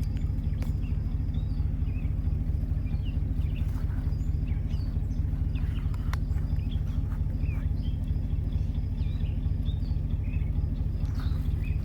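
Ford Galaxie's engine running steadily during an Italian tune-up, with carburetor and fuel-injector cleaner being fed into it to burn out deposits. Birds chirp faintly over the engine.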